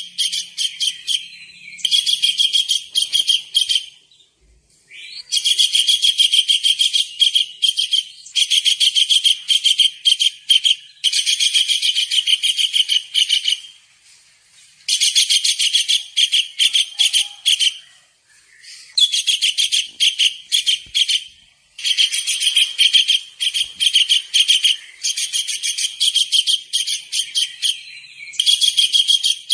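Kingfisher (tengkek udang) calling vigorously in runs of rapid, shrill high-pitched notes. Each run lasts one to three seconds, with short pauses between runs.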